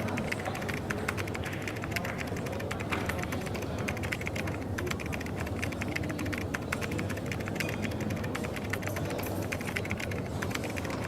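Coffee shop ambience: a dense, continuous run of small clicks and taps over a steady low hum.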